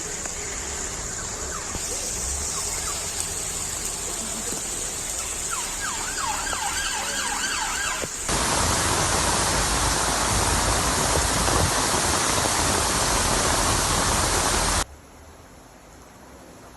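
A siren wailing over a noisy scene. Then a loud, steady rushing noise for several seconds that cuts off suddenly.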